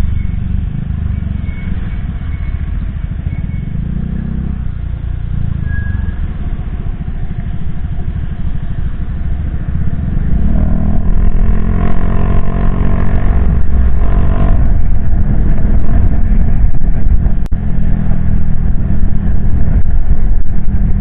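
Motorcycle engine running while riding, with wind and road noise, picked up by a helmet-mounted action camera's external mic; about halfway through, the engine grows louder and its note stands out more clearly.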